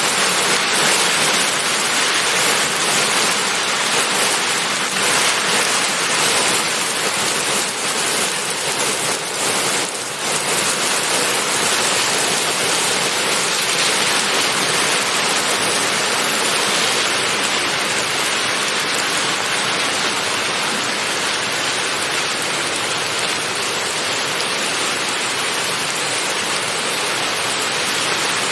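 Steady rainfall: an even hiss of rain with no pauses, dipping slightly about ten seconds in.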